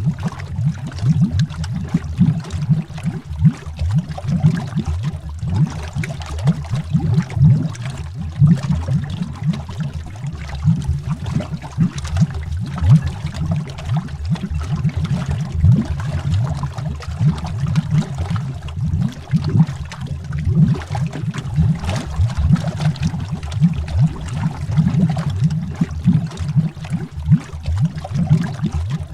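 Underwater bubbling: a dense, unbroken stream of bubbles heard as many overlapping low, irregular pops and gurgles.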